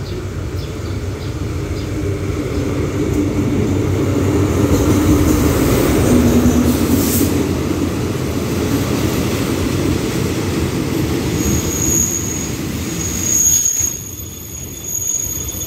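Diesel-hauled train running slowly past, its engine and wheels rumbling loudest about five to seven seconds in as the locomotive goes by. In the last few seconds, as the coaches roll on, a thin high squeal rises over the rumble: the brakes as the train slows to stop at the platform.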